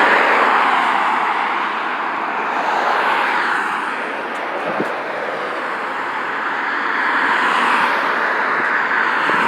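Road traffic passing close by: steady tyre and engine noise that swells and fades as vehicles go past, loudest at the start, about three seconds in and again near the end.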